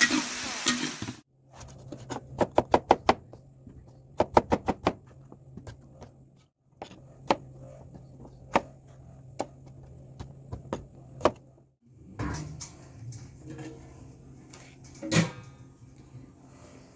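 Vegetables sizzling in a hot pan, cut off abruptly about a second in. Then sharp knocks follow, in two quick runs of about five and afterwards singly every second or two, over a steady low hum.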